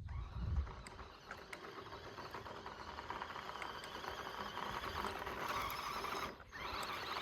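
Small electric RC car motor and gears whining as the car drives over dirt, with the tyres scrabbling on loose ground. A low thump comes in the first second, and the sound drops out briefly a little after six seconds.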